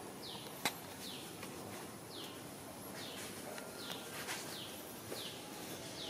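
A small bird calling: a short, high chirp that falls in pitch, repeated a little more than once a second. A single sharp click comes just under a second in.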